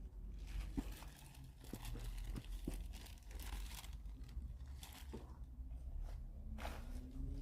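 Rustling, crinkling and scattered small clicks of hands rummaging through parts and packaging, searching for a replacement carburetor gasket.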